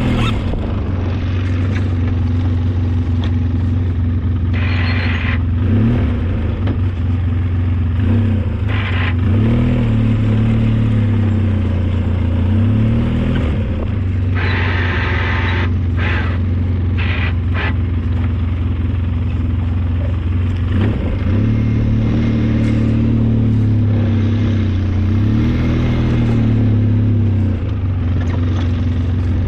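Engine of a snow-plowing vehicle running under load, its pitch swelling up and down repeatedly, with several short clattering noises over it.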